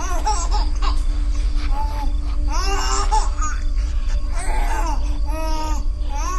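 Baby crying sound effect: a series of high, arching wails, over a steady low droning music bed.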